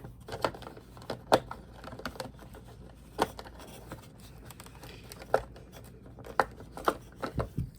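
Plastic pieces of a pet grooming clipper kit being handled, with a dozen or so light clicks and taps at irregular intervals and soft rustling between them.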